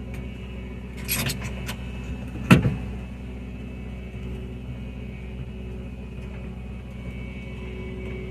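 A steady low mechanical hum made of several even tones. Over it come a few light clicks about a second in and one sharp knock about two and a half seconds in, like parts being handled and set in place.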